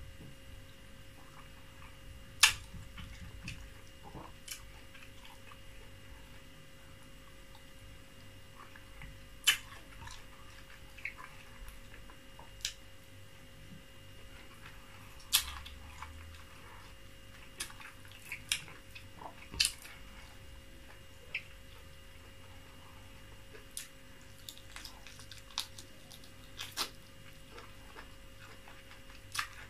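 Close-miked eating sounds: sharp, wet mouth clicks and smacks at irregular intervals, a dozen or more, as fufu and soup are chewed. A faint steady hum lies underneath.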